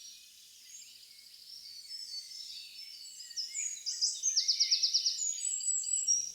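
Several songbirds singing at once, with chirps and trills overlapping. About four seconds in, a louder, fast run of repeated high notes comes through.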